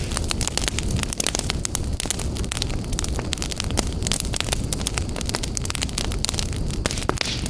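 Wood fire burning in a fireplace: a steady low rush of flames with many sharp crackles and pops throughout.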